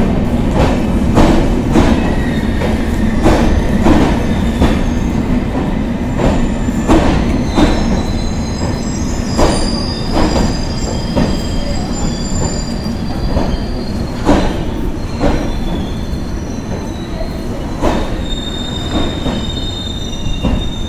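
Passenger coaches of a train rolling slowly along a platform, their wheels clicking over rail joints at an uneven pace over a steady rumble, with thin high wheel squeals coming in after a few seconds.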